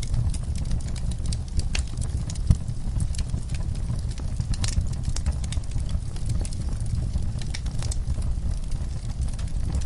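Fireplace crackling, with frequent sharp pops over a low steady rumble, mixed with horses stirring in a stall. There is one louder knock about two and a half seconds in.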